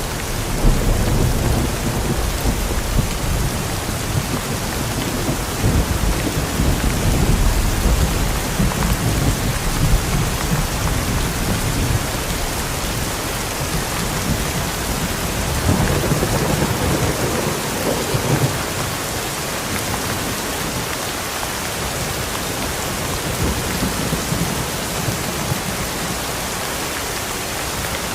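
Steady rain falling, with low rolling thunder rumbling underneath, heaviest in the first third and again about two-thirds of the way through.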